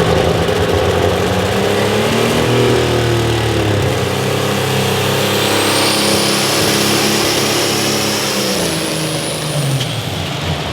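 Pulling vehicle's engine running hard, its pitch wavering up and down as the revs change, with a thin high whistle coming in about halfway through.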